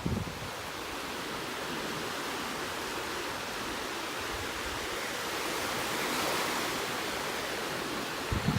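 Ocean surf on a beach: a steady rush of breaking waves that swells about six seconds in. Wind buffets the microphone with a low rumble near the end.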